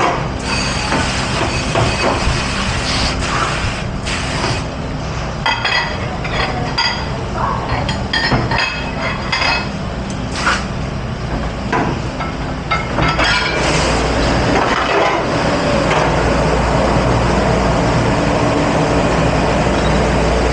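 Dishes, glassware and utensils clattering and clinking as they are handled in a commercial kitchen dish pit, over a steady machine hum. About two-thirds of the way in, a steady rushing noise sets in and continues.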